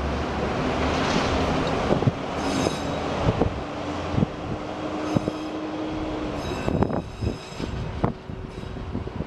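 A train rolling past on the rails, its wheels clicking over the rail joints and briefly squealing twice in high-pitched spells. The rumble fades near the end.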